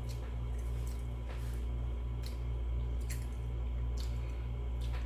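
A person chewing food close to the microphone, with short wet mouth clicks every half second to a second, over a steady low hum.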